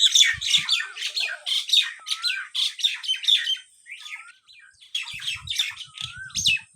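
A group of small pet birds chirping and squawking rapidly, with a short rising call repeating about once a second. The chirping thins to a lull a little past the middle, then picks up again, with a few low thuds near the end.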